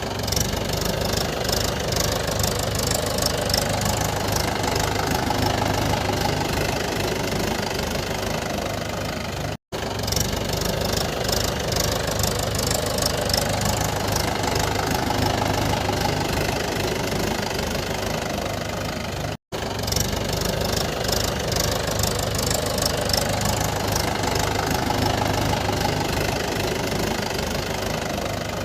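An engine running steadily, looped: the same stretch repeats about every ten seconds, with a brief dropout at each join.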